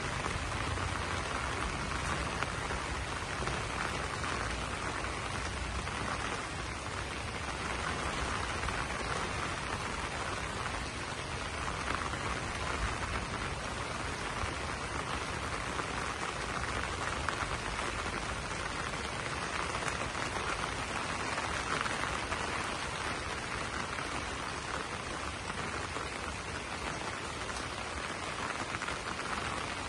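Steady rain falling on banana leaves, an even hiss that holds at one level throughout.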